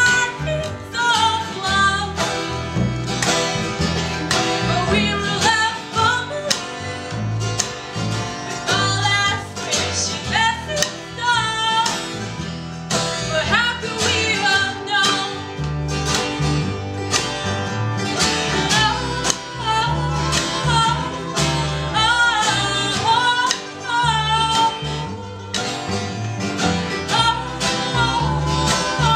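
Acoustic old-time folk band playing live: guitar with a steady low pulse under a wavering melody line that bends in pitch.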